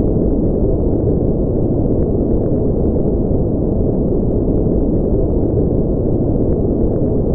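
Steady, unchanging white noise, a deep, dull rushing hiss with almost nothing in the high range.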